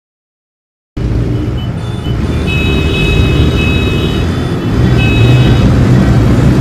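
Loud road traffic noise that starts suddenly about a second in: a heavy engine rumble with horns sounding twice, a long blast and then a shorter one.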